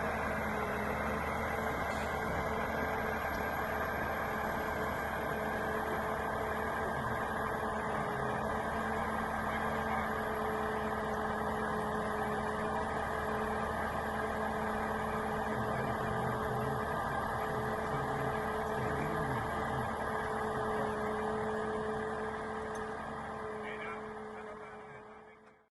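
An engine runs steadily at constant speed with an even hum, then fades out near the end.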